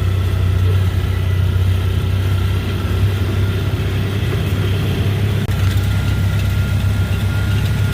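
Heavy diesel vehicle engine running steadily: a low drone with a faint steady whine above it, briefly broken about five and a half seconds in.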